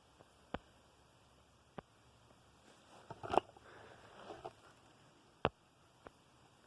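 A few short, faint clicks and taps in a quiet room, the loudest a small cluster about three and a half seconds in; no vacuum motor is running.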